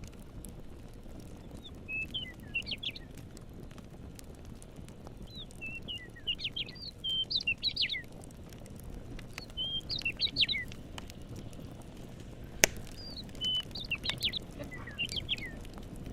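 A songbird singing bursts of quick, high chirping notes, repeated every couple of seconds, over scattered crackles of a campfire and a steady low rumble. One sharp crackle pop about three-quarters of the way through is the loudest single sound.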